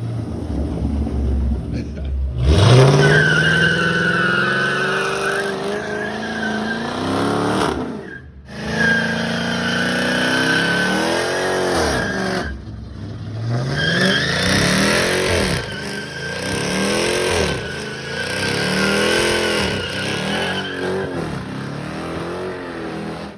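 Car engine revving up and down over and over while the tires squeal steadily: a burnout. The sound drops out briefly a few times.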